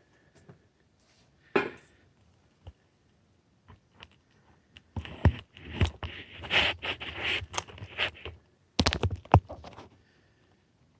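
Close handling noise as the camera is moved into a different mount: a sharp knock about a second and a half in, then several seconds of scraping and rustling with thuds, and a few clunks near the end.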